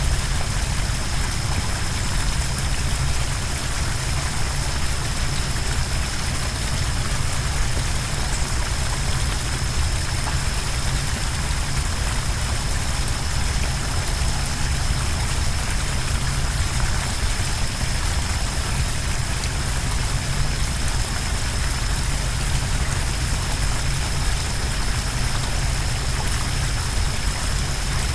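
Steady roar of the Sioux Falls waterfall on the Big Sioux River: rushing water with a deep low rumble, unchanging, with a thin steady high whine over it.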